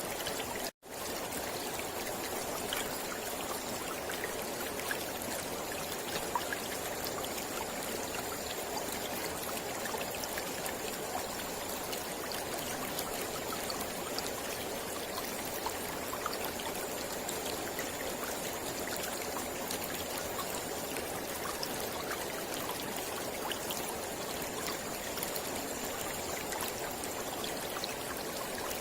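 Mountain river flowing over rocks: a steady rush of water with small splashes scattered through it. The sound drops out for a split second about a second in.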